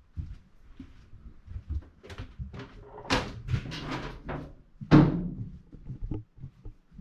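A run of irregular knocks and thumps with some scraping between them, the heaviest thud about five seconds in.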